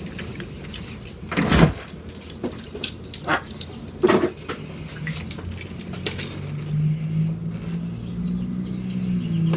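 A few sharp crunches of a pizza-flavoured Pringles crisp being bitten and chewed, then a low steady hum through the second half.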